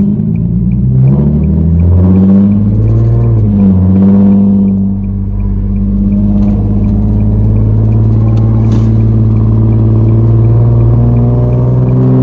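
Nissan 370Z's 3.7-litre V6 running loud through a straight-piped, catless, muffler-delete single exhaust while the car accelerates. The pitch climbs, drops sharply at a gear change about three and a half seconds in, then rises slowly and steadily in the next gear.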